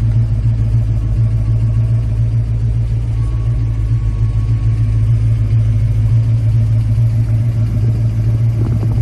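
1963 Ford Fairlane restomod's engine idling with a steady low rumble.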